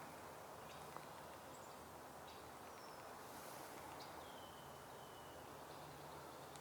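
Quiet woodland ambience with faint songbird calls: a few short high chips, then one thin whistled note about four seconds in that slides slightly downward.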